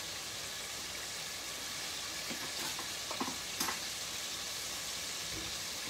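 Chicken nuggets frying in a pot of hot oil on medium heat: a steady, even sizzle. A few short, light knocks come around the middle.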